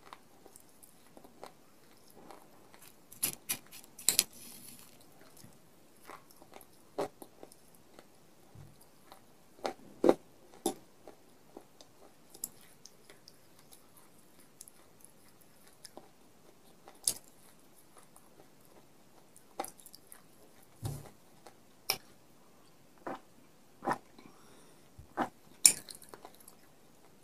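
Close-up chewing of hard, dry clay-pot pieces coated in white khadi chalk and clay crumbs, with sharp crunches at irregular intervals, a second or two apart.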